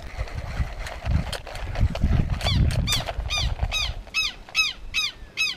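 A bird calling a short, harsh note over and over, about three times a second, starting about two and a half seconds in. Before that, a low rumble on the microphone.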